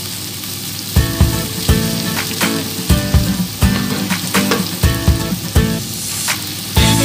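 Sliced onion, ginger and garlic sizzling in oil in a nonstick wok as they are stirred with a wooden spatula. Background music with short notes and a regular beat plays over the sizzle.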